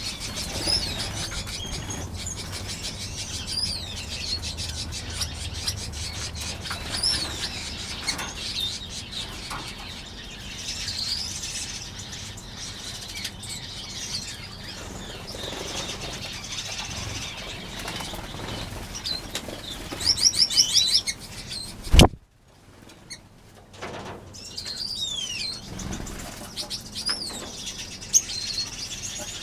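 Many finches in an aviary chirping and calling over one another, with wingbeats as they flit about, and a quick run of rising notes about two-thirds of the way in. A sharp click follows shortly after, then a brief hush before the chirping picks up again.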